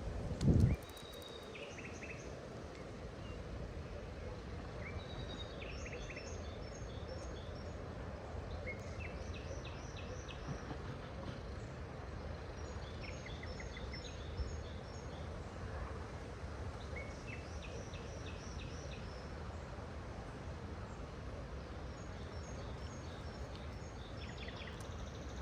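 Small birds singing short repeated phrases of high chirps every few seconds over a steady low background rush. A single low thud about half a second in is the loudest sound.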